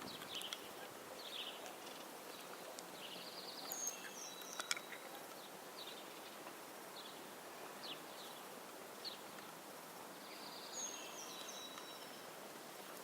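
Small birds singing and calling in short, scattered chirps and brief warbles over a steady background hiss. A couple of sharp clicks come about four and a half seconds in.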